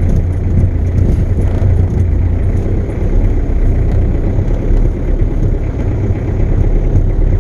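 Ford Ranger's Perkins four-cylinder diesel engine running as the truck drives off, heard from inside the cab, a steady low drone with road noise.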